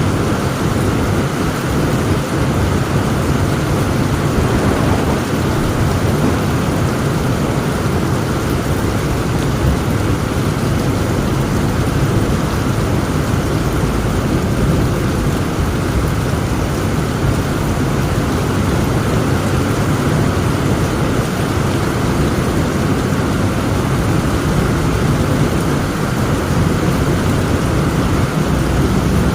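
Heavy rain falling steadily, with a deep continuous rumble of thunder underneath.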